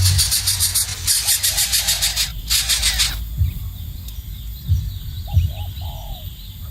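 Young birds calling with rapid, high-pitched chirps that stop about three seconds in; a few short, lower calls follow near the end.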